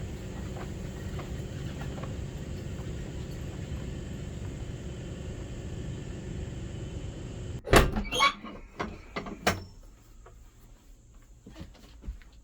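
A steady low rumbling noise that cuts off abruptly about two-thirds of the way in. It is followed by a cluster of loud, sharp knocks and clatters over about two seconds, then a few faint clicks.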